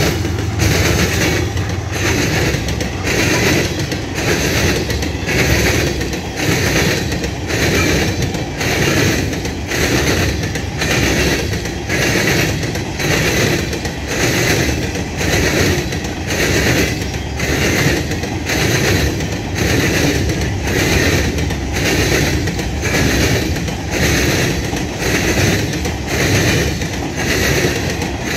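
Empty Herzog hopper cars of a CSX freight train rolling past, their wheels clattering over the rails in a steady rhythm, about three beats every two seconds. The low rumble of the trailing diesel locomotive fades in the first couple of seconds.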